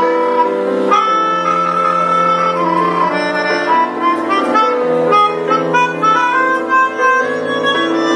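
Melodica (keyboard harmonica) playing a tune over held chords.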